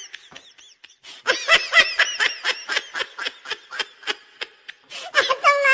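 A person's snickering laugh: a quick run of short high 'heh-heh' syllables, about five a second, lasting about three seconds, then a longer held vocal sound near the end.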